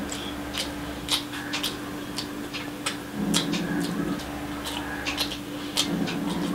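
Close-miked chewing of a mouthful of fried rice, with wet mouth clicks and smacks several times a second and fingers squishing through the rice. Two short low hums come about three seconds in and near the end.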